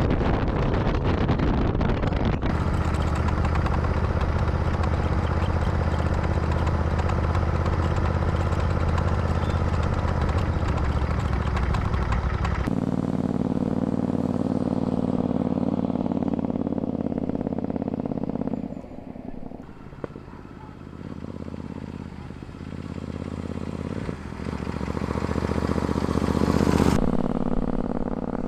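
Royal Enfield Interceptor 650 parallel-twin motorcycle engine running at a steady cruise. The engine note changes abruptly several times, dropping lower about halfway, going quieter for several seconds, then building again before cutting off near the end.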